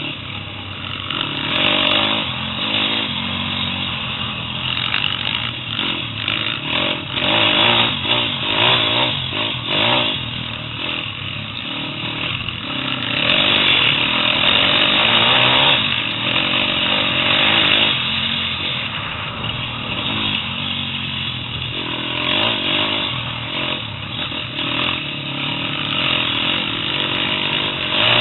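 A 125cc pit bike's single-cylinder four-stroke engine running hard, its pitch rising and falling again and again as the throttle is opened and closed.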